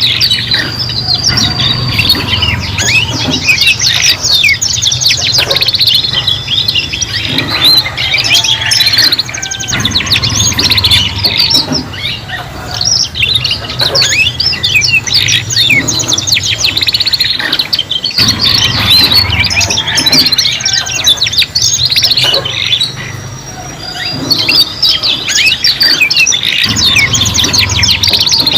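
Several domestic canaries singing together, with rapid chirps, rolling trills and short whistled notes.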